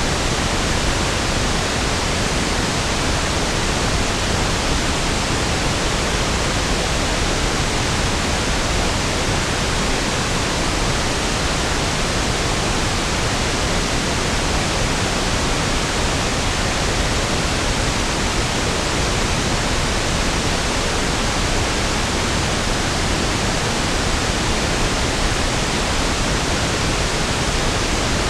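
Steady pink noise: an even, unchanging hiss spread across the whole range up to the highs, with no events or changes.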